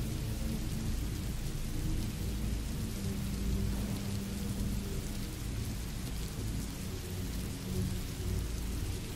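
Steady rain sound effect hissing evenly, over a deep low rumble like distant thunder. Faint held low notes of ambient background music sit underneath.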